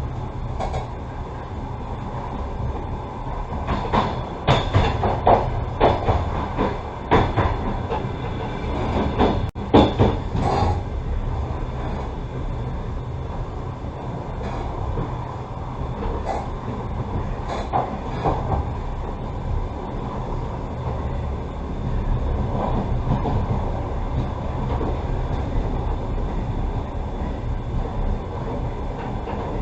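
Passenger train running, heard from inside the carriage: a steady low rumble, with the wheels clacking sharply over the track in a dense run of knocks between about four and eleven seconds in, and a few more later.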